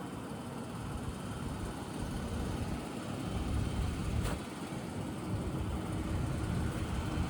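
Low, steady rumble of a vehicle running, with a single short click about four seconds in.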